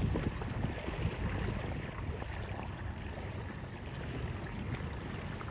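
Wind rumbling on the microphone, a steady low buffeting with a faint even hiss above it.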